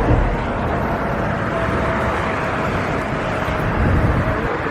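Steady vehicle traffic noise, an even rushing sound with low rumble and a faint steady hum.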